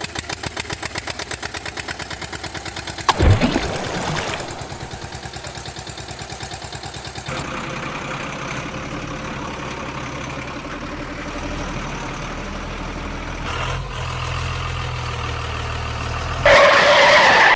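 Truck engine running: a fast, even chugging for the first few seconds, then a steadier running sound. A brief sweeping glide comes about three seconds in, and a sudden loud noisy burst near the end is the loudest moment.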